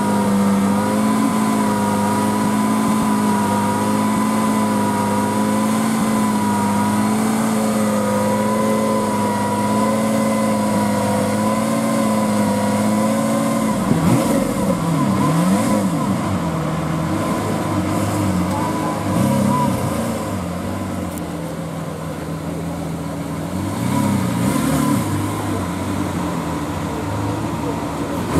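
Lamborghini Aventador SV's 6.5-litre V12 idling steadily, then blipped up and down a few times about halfway through and once more later.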